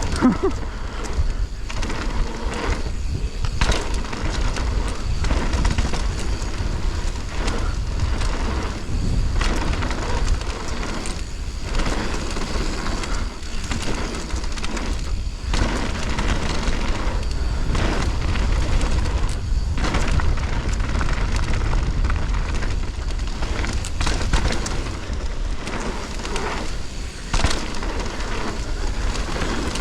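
Mountain bike descending a bike-park trail: steady tyre and wind rumble on the microphone, broken by frequent rattles and knocks from the bike over rough ground.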